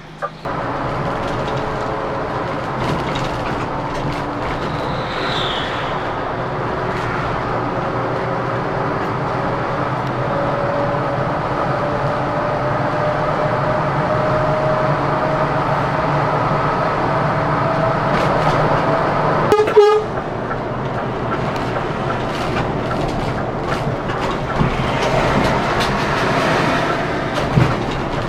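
Scania K410CB coach on the road, its engine and driveline running steadily with a tone that rises slowly as it picks up speed. A brief horn toot sounds about twenty seconds in.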